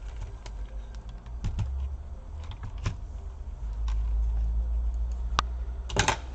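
Scattered light clicks and taps of hands handling small laptop parts, with a quick run of clicks about six seconds in, over a steady low hum.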